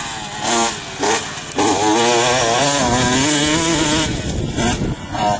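Motocross bike engine revving. It gives two short blips of throttle, then holds high revs for about two seconds with the pitch wavering up and down, then gives two more quick blips near the end.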